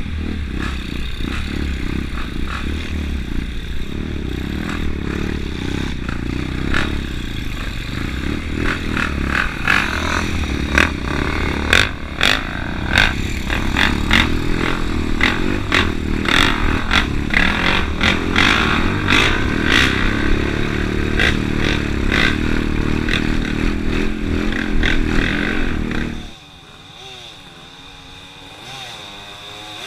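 Motocross dirt bike engine running, with many short clattering knocks and scrapes through the middle. Near the end it drops abruptly to a much quieter sound with a wavering pitch.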